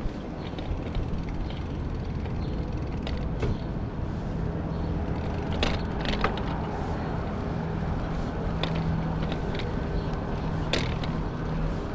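Bicycle being ridden: steady rolling rumble with scattered clicks and creaks from the bike's mechanism.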